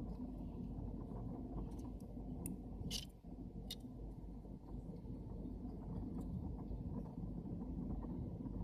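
A few light clicks and taps of small camera-lens parts being handled during reassembly, about three of them in the middle, over a steady low background rumble.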